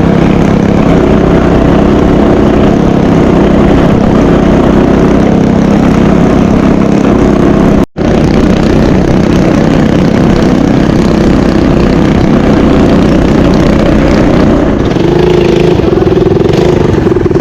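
Mini bike's small engine running steadily. The sound drops out for an instant about eight seconds in.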